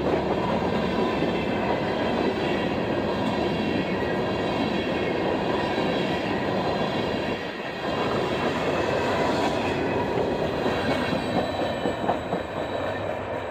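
A train passing close by, its wheels running steadily over the rails, with a brief dip in level about seven and a half seconds in.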